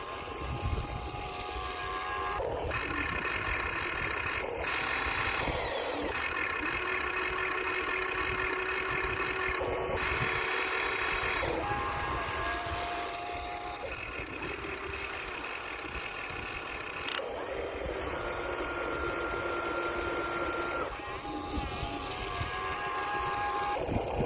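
Small geared electric motors of Huina radio-controlled construction models whining in spurts of one to a few seconds. The pitch changes as different functions start and stop.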